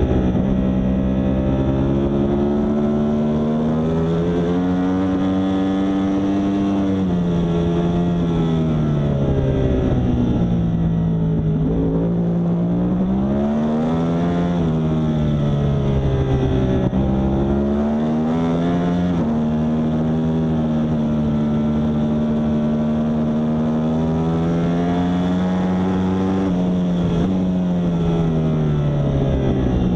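Yamaha R1 superbike's crossplane inline-four engine under race throttle, its pitch climbing and falling again and again as the bike accelerates and slows.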